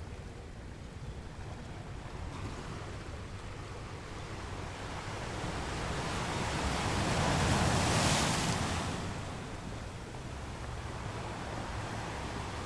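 Ocean surf: the rush of water swells to one wave breaking about eight seconds in, then falls back to a steady wash.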